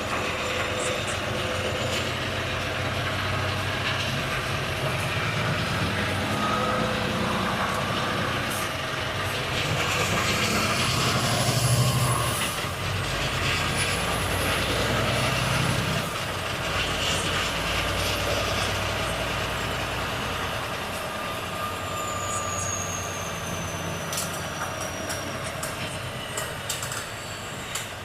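Volvo FH truck's diesel engine running on the road. Its low drone swells and rises in pitch twice, about ten and fourteen seconds in, then settles. A high whistle falls in pitch a little past twenty seconds, and a few clicks come near the end.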